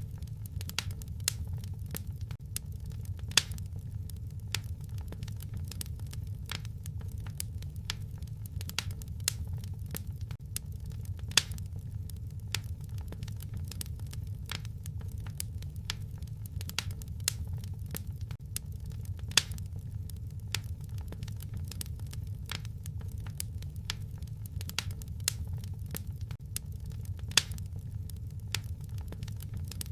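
Wood fire crackling in a fireplace: a steady low rumble of burning with many irregular sharp snaps, and a few louder pops standing out.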